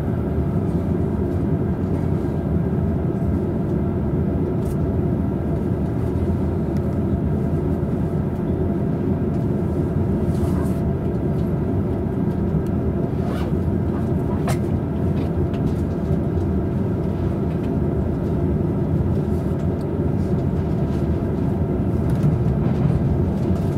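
Steady low rumble inside a double-deck Green car of a Tokaido Line commuter train, as the train stands at the platform and then pulls away, with a few faint ticks.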